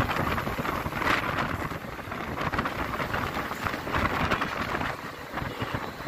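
Passenger train running along the track, heard from an open door: a dense rumble of wheels on rails mixed with wind buffeting the microphone, swelling about a second in and again near four seconds.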